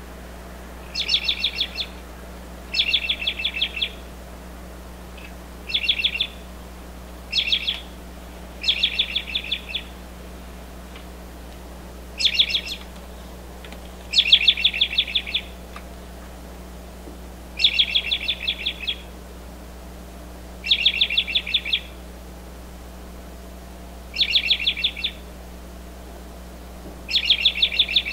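A bird calling in repeated short bursts of rapid harsh chattering notes, each burst about a second long, recurring every two to three seconds.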